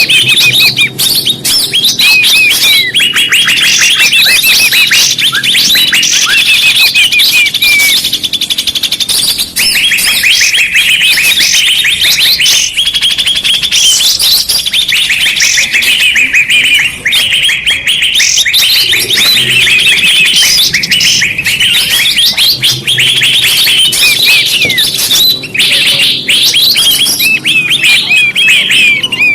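Bird-lure recording: many small birds chirping and trilling at once in a dense, unbroken chorus of rapid high chirps, played loud to draw birds in.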